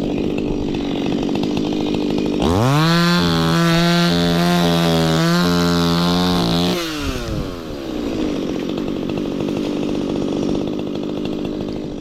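Stihl MS 180 two-stroke chainsaw running at idle, then throttled up about two and a half seconds in, held at high revs for about four seconds, and let back down to idle.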